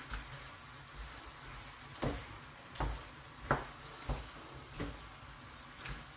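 Stir-fry being turned in a wok: a utensil knocks and scrapes against the pan about once every 0.7 seconds, over a faint steady sizzle from the food cooking.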